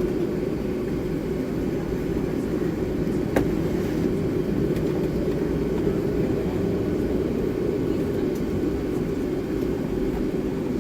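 Steady cabin noise inside a Boeing 757-300 on the ground, with the engines running at idle: an even rumble with a steady hum. A single sharp click comes about three seconds in.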